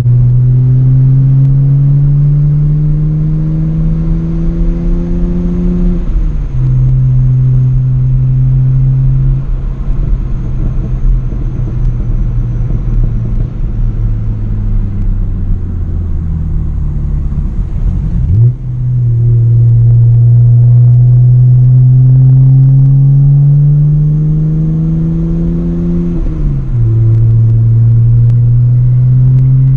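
Straight-piped exhaust of a BMW E90 under way: the engine climbs in revs and shifts up about six seconds in, then eases off with the revs falling for several seconds. After a quick dip past halfway it pulls hard up through the revs again, with another upshift near the end.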